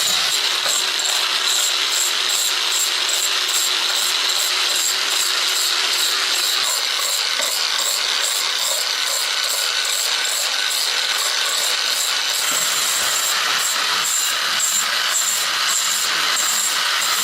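An electric power tool running steadily, with a high whine and a regular tick about three times a second.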